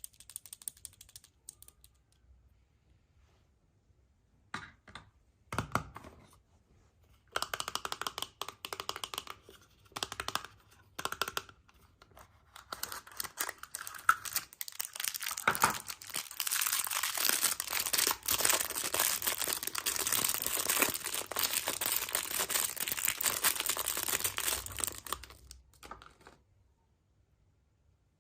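Foil wrapper of a chocolate surprise egg being torn and crinkled off by hand. Scattered crackles and clicks come first, then a long stretch of steady crinkling that stops abruptly near the end.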